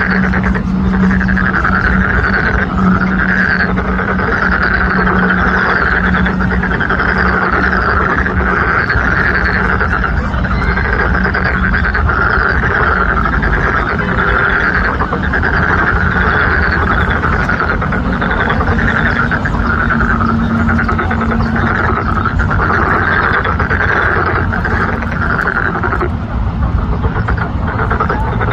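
Chorus of many frogs calling at once, a dense unbroken croaking. A steady low hum sits underneath it through about the first half.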